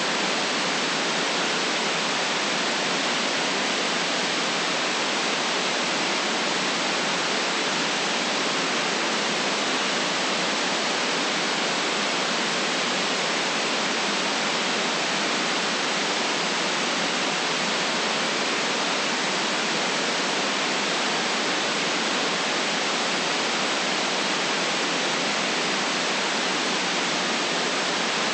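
Steady electronic white noise: an even, unchanging hiss with its deepest and highest parts filtered out.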